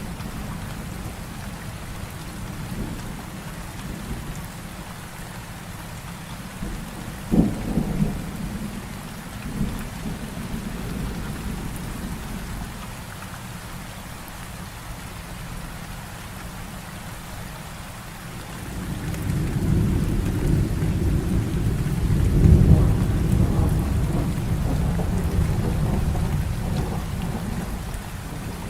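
Heavy rain falling steadily, with thunder: a sharp crack about seven seconds in, then a long low rolling rumble that builds from about two-thirds of the way through and slowly fades near the end.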